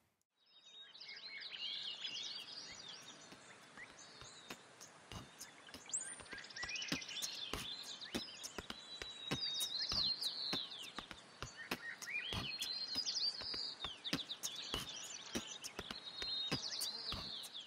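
Several small birds chirping and twittering together, with scattered sharp clicks throughout.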